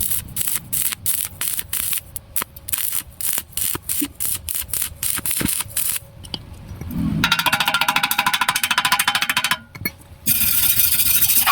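Stick-welding arc crackling: for about six seconds it comes in rapid short bursts, four or five a second, as the arc is struck and broken over and over. It then runs as a steady, dense crackle for a couple of seconds, stops briefly, and starts again near the end.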